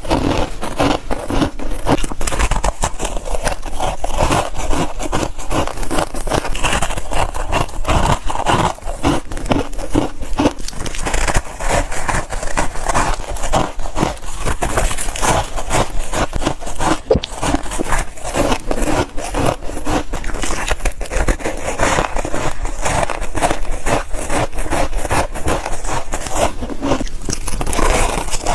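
Chunks of freezer frost being bitten and chewed close to the microphone: a dense, unbroken run of crisp crunches and crackles.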